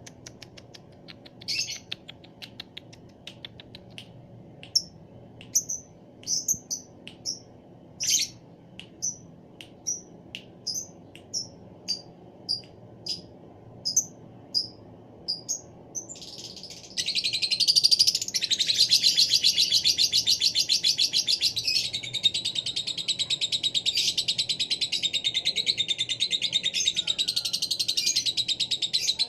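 Lovebird calling: sharp single chirps, one or two a second, then about seventeen seconds in it breaks into a long, loud, continuous rapid chattering trill, the drawn-out song that lovebird keepers time for its duration.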